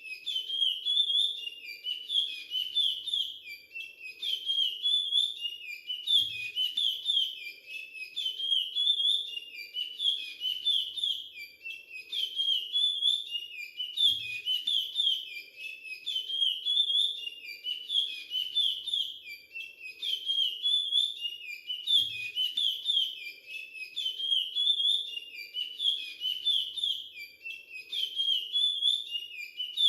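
Young male chestnut-bellied seed finch (curió) singing the Timbira 'virado clássico' song dialect, a high, whistled, warbling phrase repeated again and again with hardly a pause.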